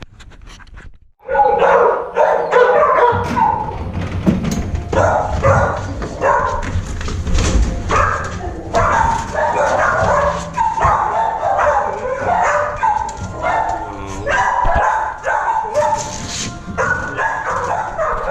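Music starts suddenly about a second in, with several dogs barking and yipping over it.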